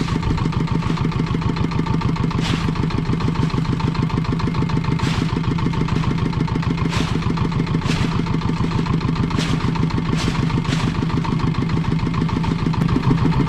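Small fishing boat's engine running steadily, with about seven short knocks or clatters scattered over it.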